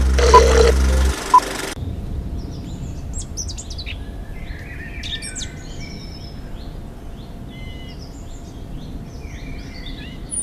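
Loud music with a short beeping tone about once a second cuts off about a second and a half in. After that, several birds sing and chirp in quick, overlapping phrases over a faint steady outdoor background.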